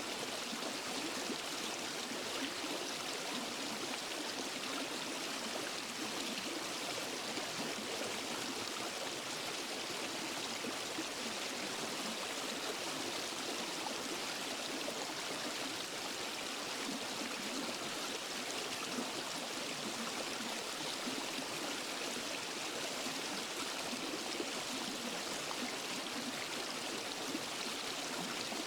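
Steady rushing and splashing of a forest waterfall and stream flowing over rocks, an even hiss strongest in the upper range with no breaks.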